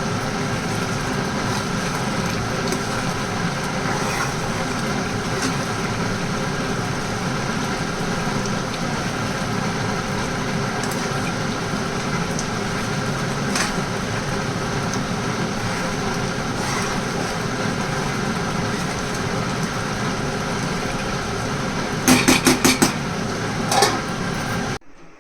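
Steady machine hum with several held tones, like a motor running. Near the end comes a short rapid run of clicks or rattles, then the hum cuts off suddenly.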